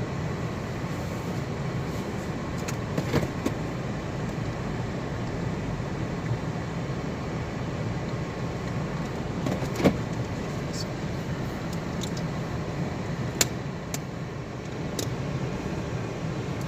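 Steady road and engine noise heard from inside a moving car, with a few sharp clicks or knocks.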